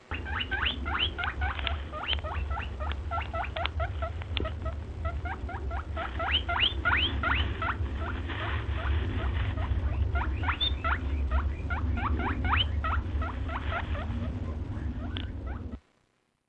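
A small animal squeaking over and over: short high squeaks, each rising sharply in pitch, several a second, with pauses, over a steady low hum. It cuts off suddenly near the end.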